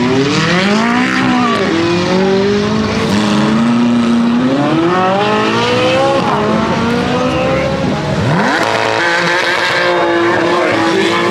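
Supercar engines revving hard under acceleration, their pitch climbing, dropping and climbing again through gear changes.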